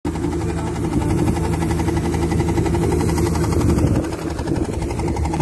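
Diesel engine of farm machinery running steadily under a fast, even pulse.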